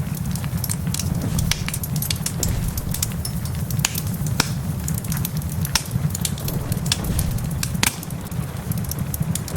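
Wood fire in a fireplace crackling, with irregular sharp pops and snaps, one louder pop near the end, over a steady low rumble.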